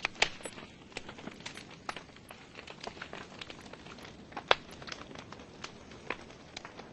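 Logs burning in a fireplace, crackling with irregular sharp pops over a faint hiss; the loudest pops come about a quarter second in and about four and a half seconds in.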